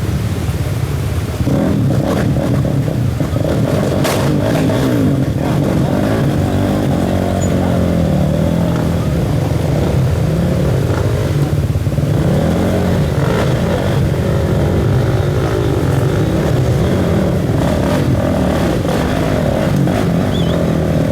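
Off-road enduro motorcycle engine running under throttle, its pitch rising and falling as it revs, getting louder about a second and a half in.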